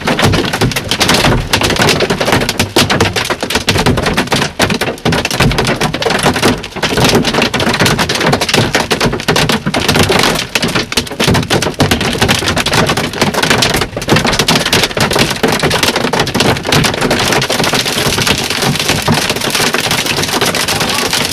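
Large hail pounding the body and roof of a truck, heard from inside the cab: a dense, continuous rattle of hard impacts, turning into a more even patter in the last few seconds.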